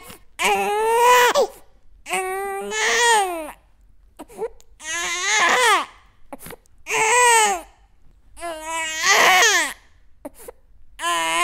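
Baby crying in a string of wavering wails, each about a second long, with short pauses between, about six in eleven seconds.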